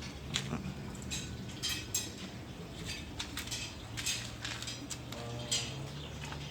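Scattered light clicks and clinks of hard objects, over a low steady hum.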